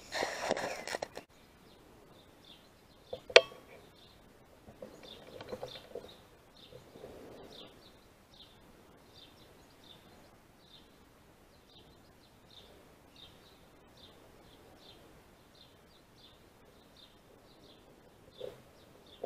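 A small bird chirping over and over, a short high chirp about twice a second. About three seconds in there is one sharp click, and the first second has a loud rustle.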